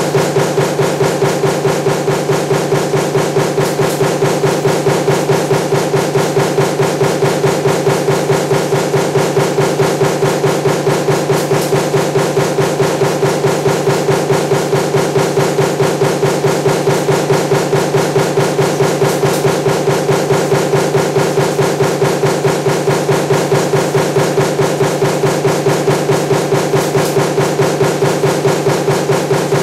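Power punch press running continuously, stamping table-fan motor laminations with its die in rapid, evenly spaced strokes over a steady machine hum.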